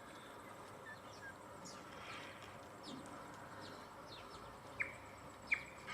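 Small birds chirping: scattered faint short chirps throughout, with two louder sharp chirps near the end, over a faint steady outdoor background.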